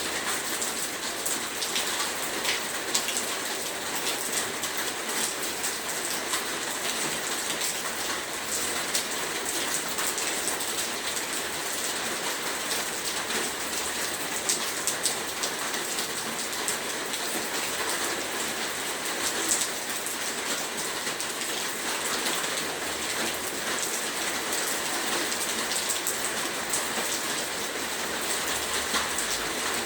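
Heavy rain falling steadily: a dense, even hiss peppered with many small drop taps.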